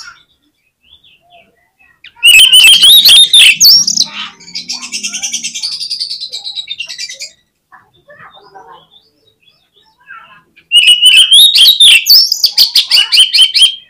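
Oriental magpie-robin (kacer) singing vigorously. A loud burst of rapid, varied song phrases comes about two seconds in, followed by a softer, fast chattering trill. After a pause, another loud burst of song comes near the end.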